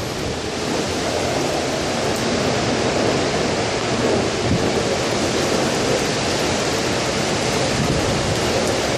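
Severe thunderstorm: driving rain and strong wind making a steady, loud rush with no clear thunderclap.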